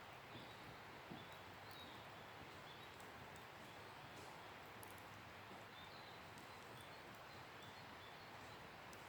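Wood campfire burning quietly: a faint even hiss with a few small crackling pops.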